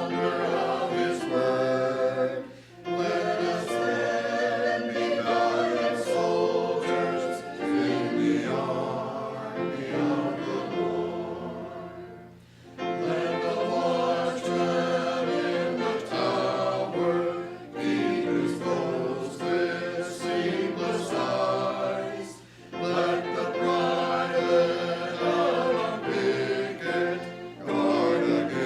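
A church congregation singing a hymn together, in sustained phrases with short pauses between lines.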